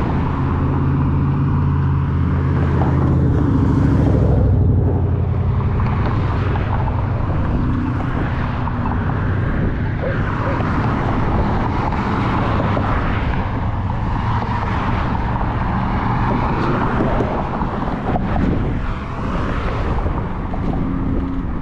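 Steady wind rush on a GoPro's microphone with the riding noise of an Apollo Go electric scooter, on a windy day.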